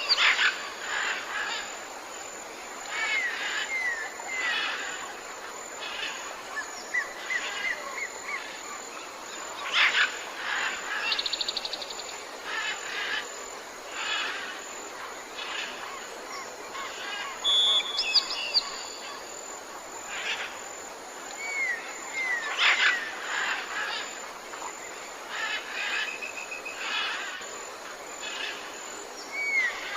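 Several birds calling and chirping together in a jungle soundscape: short repeated chirps, curving whistled notes and a brief fast trill about a third of the way through, over a steady high background hiss.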